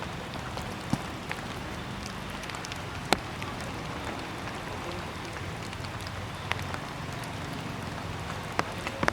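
Water dripping from rain-soaked trees after a shower: an even wet hiss with scattered single drops landing sharply, about half a dozen in all.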